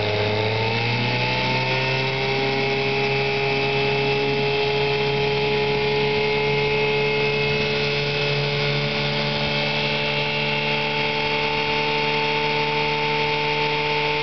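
1963 Johnson 5.5 hp two-stroke outboard motor running under way; it picks up speed over the first two seconds, then holds a steady, quiet and smooth pace.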